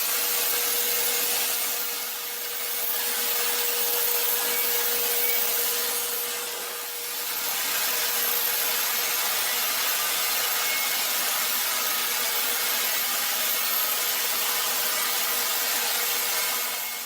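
Powered wood-cutting saw machine running steadily while cutting through wood, a dense rasping noise over a steady hum, dipping briefly twice.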